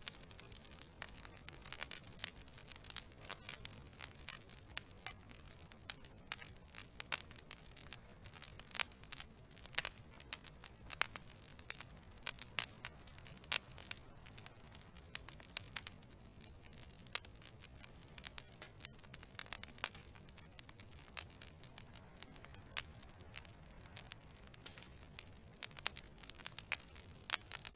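Wood fire burning in a fireplace, logs crackling and popping with many sharp, irregular snaps over a low steady hiss of flame.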